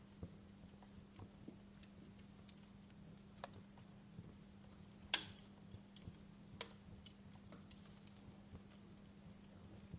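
Wood fire crackling with irregular small pops and snaps, one louder pop about five seconds in, over a faint steady low hum.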